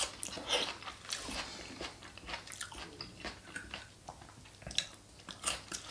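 Close-miked chewing of a mouthful of Greek salad, crisp lettuce and raw vegetables crunching in short, irregular bites.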